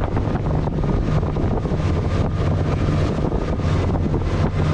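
Tour boat's engine running steadily with a low hum, with wind noise on the microphone.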